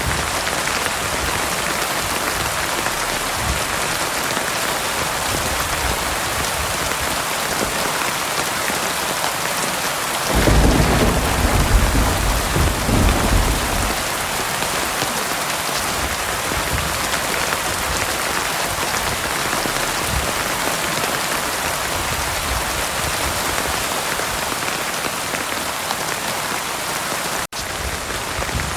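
Steady heavy rain hissing, with a low rumble of thunder about ten seconds in that lasts three or four seconds. A split-second gap in the sound comes near the end.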